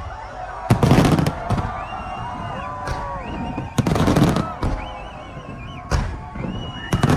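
Aerial fireworks bursting: a string of loud booms with crackle, the biggest about a second in and about four seconds in, and smaller ones near the end.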